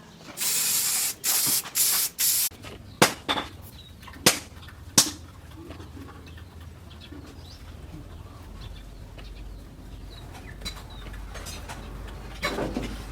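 Hissing spray in short bursts: one long burst and then three shorter ones, followed by three sharp knocks. A low hum sets in later.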